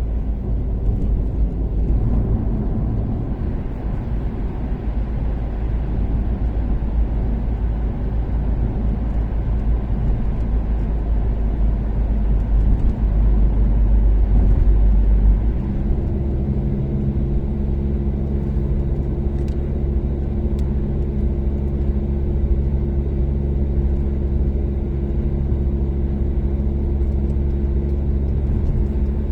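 Toyota Caldina's turbocharged 3S-GTE four-cylinder car engine and tyre rumble while cruising on an expressway. About halfway through, after a short swell, the sound settles into a steady engine drone with an even hum.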